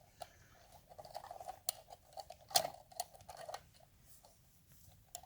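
Clutch spring nuts on a Triumph Bonneville clutch being pressed and turned onto their studs with a tool: light metallic clicks and small scrapes, with one sharper click about two and a half seconds in.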